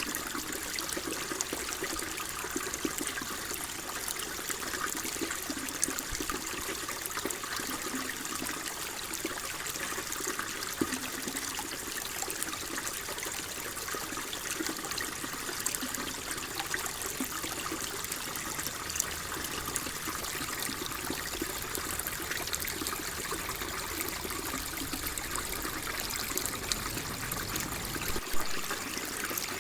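Water flowing and trickling steadily, with small splashes and gurgles through it and a slightly louder splash near the end.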